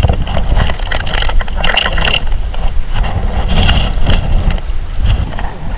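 Typhoon wind buffeting the microphone in a loud, uneven rumble that sets in suddenly at the start, with rain crackling and spattering throughout.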